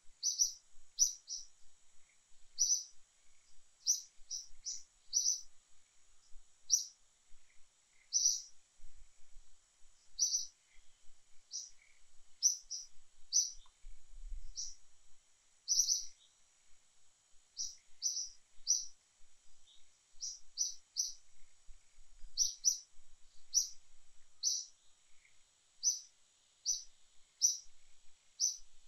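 A small bird calling over and over with short, high chirps, about one or two a second at uneven spacing, over a faint steady high hiss.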